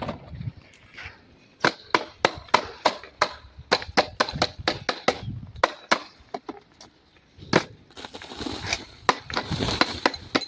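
A series of sharp knocks or strikes, irregular and about two to three a second, starting about a second and a half in. Near the end there is a scraping, rustling noise among them.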